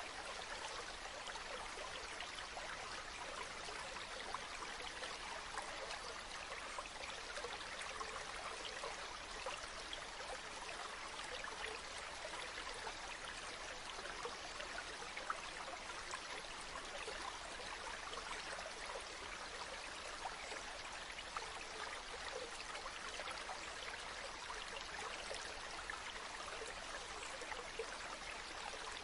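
A river flowing steadily, an even rush of water full of small splashes and trickles.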